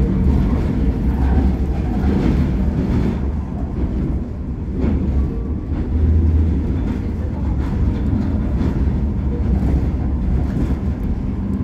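Staten Island Railway R44 subway train running along the line: a steady low rumble from the wheels and running gear, with occasional faint clicks.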